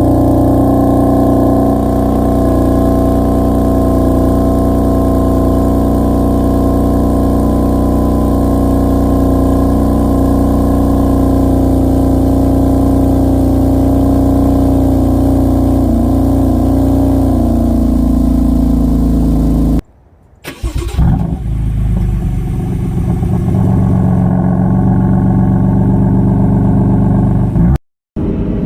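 BMW F80 M3's twin-turbo straight-six idling steadily with its exhaust valves open, settling slightly lower about 18 seconds in. After an abrupt break, the engine runs again with a brief surge about 21 seconds in.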